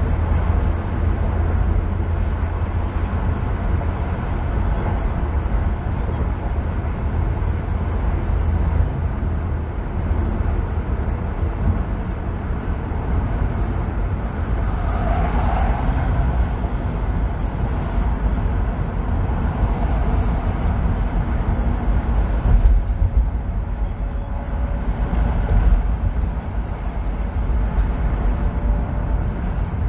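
Car driving on a freeway: a steady, deep rumble of road and engine noise, with a brief swell about halfway through.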